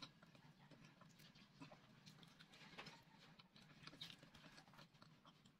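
Near silence with a few faint, scattered mouth clicks of a person chewing boiled cassava.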